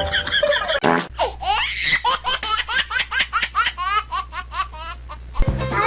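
High-pitched laughter in a long run of quick laughs, starting about a second in and stopping shortly before the end.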